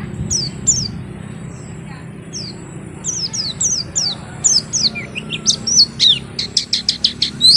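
White-eye (pleci) singing a string of high, quick downslurred chirps. The notes come sparsely at first, then thicker and faster, ending in a rapid run of sharp notes near the end.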